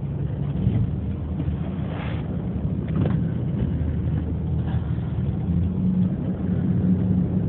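Ferry's engines running with a steady low drone and rumble, heard from aboard the vessel.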